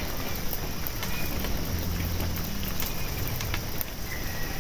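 Water spraying and pattering steadily onto crop leaves and soil, with a few faint clicks.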